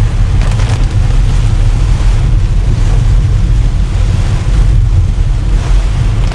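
Heavy rain falling on a moving car, heard from inside the cabin, over a steady low rumble of road and wind noise.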